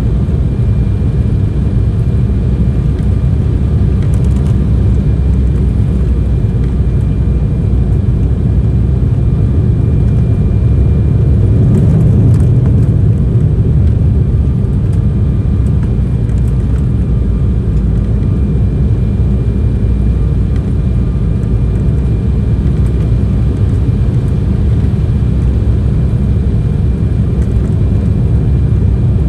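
Cabin sound of an Embraer E190 airliner: a steady, loud low rumble of airflow and its GE CF34 turbofan engines, with faint steady whine tones over it, swelling slightly about twelve seconds in.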